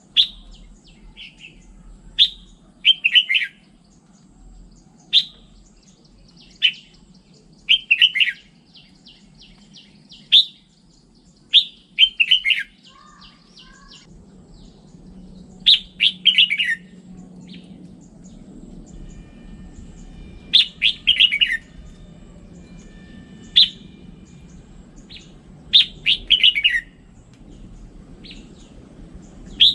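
Red-whiskered bulbul singing: short bright whistled phrases repeated every one to three seconds, many a quick run of notes sliding down in pitch, over a faint low hum.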